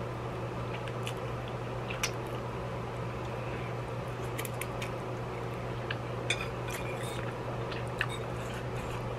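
Noodles slurped and chewed, with scattered brief wet clicks and smacks, over a steady low hum from an electric fan.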